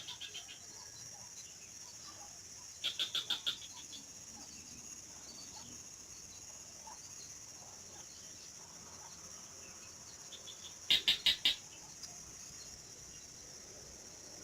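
A bird calling twice, each call a quick run of five or six sharp notes lasting under a second, over a steady high-pitched insect buzz.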